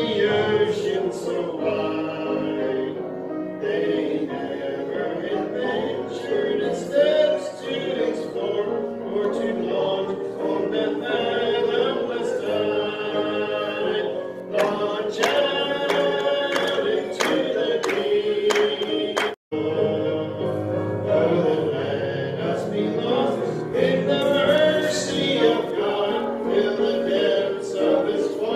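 Church congregation singing together, many voices in unison. The sound drops out for an instant about two-thirds of the way through.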